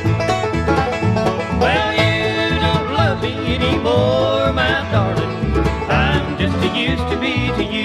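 Bluegrass band playing an instrumental break: banjo and guitar over a steady upright-bass pulse, with a lead instrument playing sliding melodic lines from about two seconds in.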